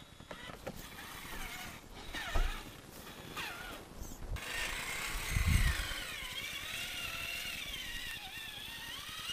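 Electric motor and drivetrain of a Traxxas Summit RC truck whining, the pitch rising and falling with the throttle as it drives on snow, with a couple of low thumps.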